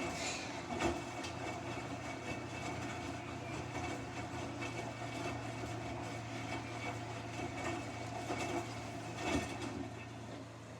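Samsung front-loading washing machine in its wash cycle: the drum motor hums steadily as the drum tumbles the jacket through the water, with a couple of soft knocks from the load, and the motor stops near the end.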